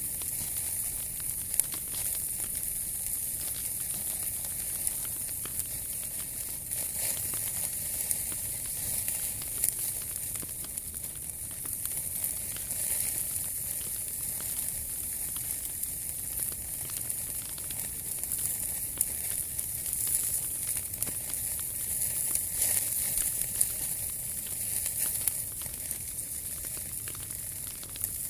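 Wood fire burning, crackling steadily with frequent small pops and a continuous hiss.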